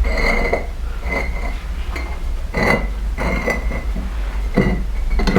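Bricks being set down and knocked against one another, a series of sharp clinking knocks at irregular intervals, over a steady low hum.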